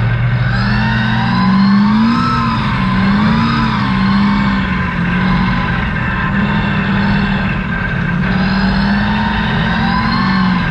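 Truck engine driving through mud, its pitch rising and falling again and again as the throttle is worked on and off.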